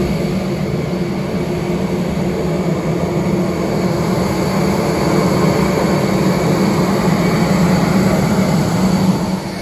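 Steady engine and airflow noise of an Airbus A321neo heard from inside the aircraft, with a strong low hum; it drops a little just before the end.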